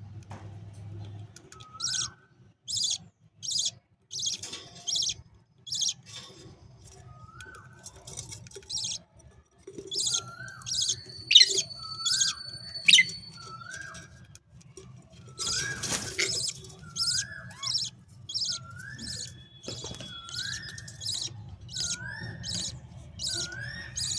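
Budgerigar chicks calling while being fed: short high chirps repeated over and over, about once or twice a second, each paired with a short rising call. A brief louder rustle comes about two-thirds of the way through.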